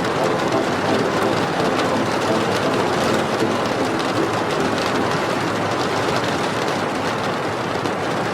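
Steady rain: a dense, even hiss with faint scattered drop ticks.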